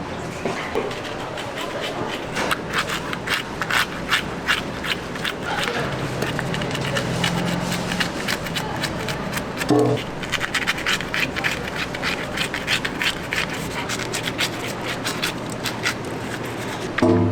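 Rapid scraping and clicking strokes, several a second, the kind made by food being handled and worked at a kitchen counter.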